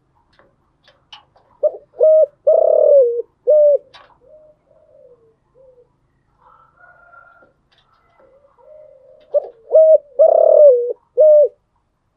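Spotted dove cooing: two song phrases of four or five coos each, the middle coo longer and slurring down, about seven seconds apart, with fainter coos between them.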